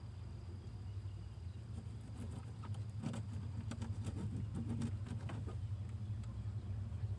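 A string of light clicks and knocks from handling things at close range, over a steady low hum.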